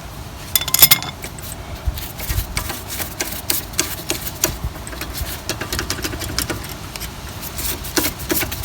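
Metal tools clicking and clinking against the brake caliper as the loosened lower caliper slider bolt is undone with a 14mm spanner and socket. Quick irregular metallic clicks and rattles, with a louder burst of ringing clinks about a second in.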